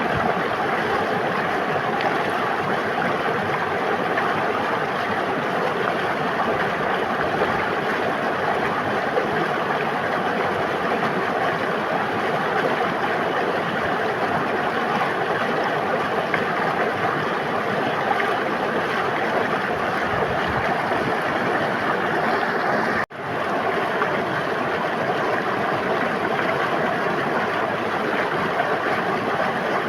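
River water flowing and rushing in a steady, even stream, with a brief sudden drop-out about three quarters of the way through.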